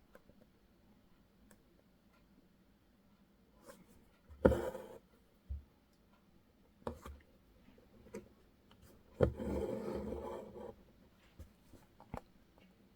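Embroidery needle pushed through fabric and thread drawn through after it: a few sharp pops and light taps, and a longer rasp of thread pulled through the cloth about nine seconds in.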